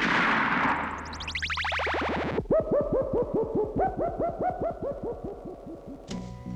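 Electronic synthesizer music and effects: a whoosh at the start, a fast falling run of short notes, then a rapid stream of short blooping notes that each drop in pitch. Near the end a low held chord comes in.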